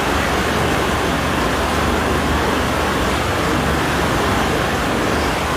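Steady vehicle road noise: an even rushing hiss over a low rumble, holding level throughout.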